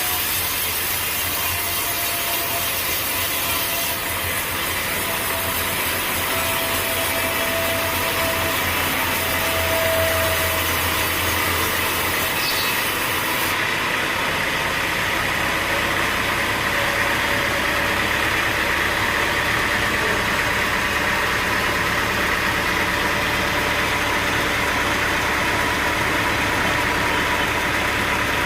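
Sawmill running and its saw cutting through a log: a steady mechanical drone mixed with the noise of the blade in the wood. The sound shifts slightly about four seconds in and again about halfway through.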